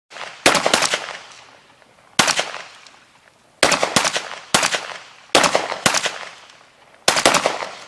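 Gunfire: about ten shots in irregular singles and close pairs, each crack trailing off in a long echo.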